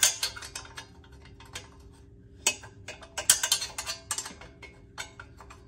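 Sharp metal clicks and clinks of a plain, non-ratcheting wrench being turned and repositioned on exhaust bolts, coming in irregular clusters, with a busier run about halfway through. A faint steady hum sits underneath.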